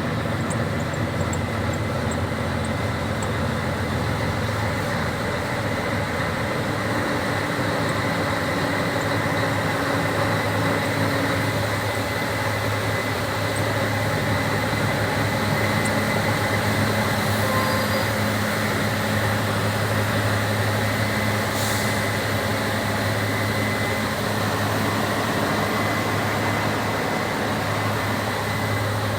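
Scania 113 truck's diesel engine running steadily, a constant drone that holds an even pitch and level throughout.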